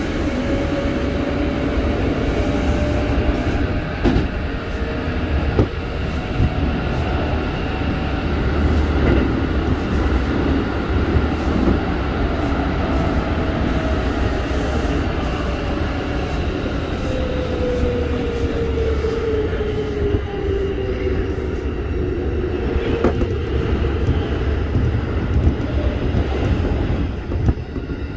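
Keikyu 1500-series field-chopper-controlled commuter train running at speed, heard from inside the car: a steady heavy rumble of wheels and running gear with a whining tone that falls in pitch in the second half. A few sharp clicks from the rails break through.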